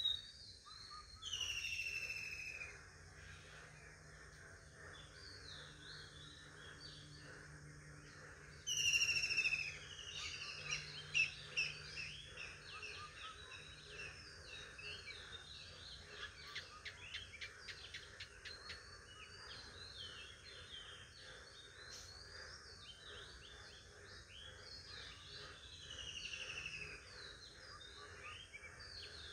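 Birds chirping and singing: many short chirps throughout, with a louder falling trilled call about a second in, again about nine seconds in, and once more near the end.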